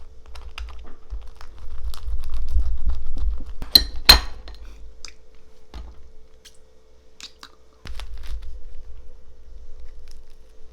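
Tableware being handled: glass and dishes clinking, with two sharp, loud clinks close together about four seconds in and smaller clicks around them.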